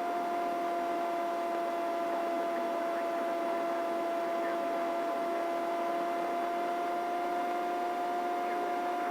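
Helicopter in cruise flight: steady engine and rotor drone inside the cabin, with two strong steady tones.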